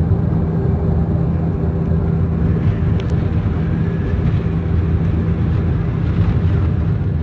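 Box truck driving, heard from inside the cab: a steady, loud low rumble of engine and road noise, with a small click about three seconds in.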